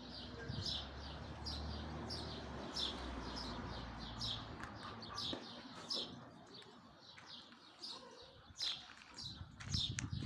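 Small birds chirping over and over, short high notes that fall in pitch, two or three a second, over a low rumble that fades about halfway through.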